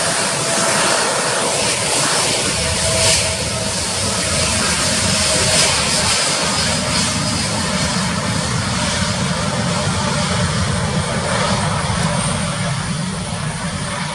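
Boeing 787 Dreamliner's jet engines running loud and steady during takeoff, a dense rushing engine noise that eases slightly near the end.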